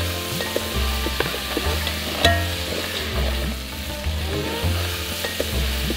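Crab pieces frying with a steady sizzle in an aluminium pot while being stirred, with a few sharp clicks of the utensil against the pot. Background music with a repeating bass pattern plays under it.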